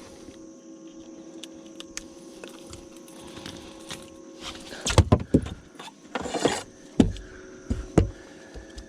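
A small bass being handled and measured in a boat: scattered clicks, then several sharp knocks and thumps against the boat about halfway through and near the end, with a faint steady hum underneath.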